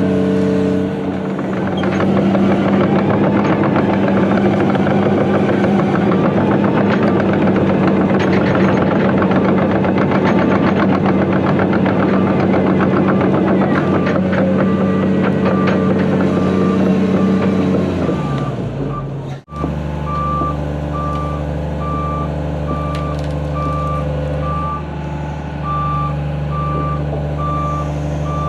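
John Deere 250G LCR excavator's diesel engine running steadily under load, with crackling and snapping of brush and limbs. About two thirds of the way through the sound cuts abruptly to a lower-running diesel machine whose backup alarm beeps about once a second.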